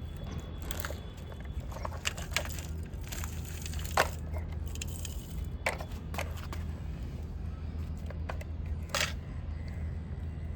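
Scattered sharp clicks and scrapes of toys being handled, over a steady low hum.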